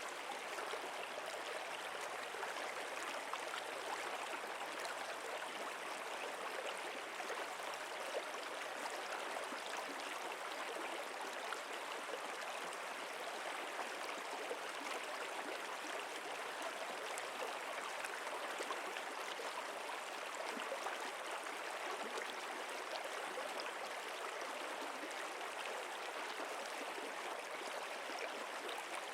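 Running water flowing steadily and evenly, with a fine trickling, splashing texture and no breaks.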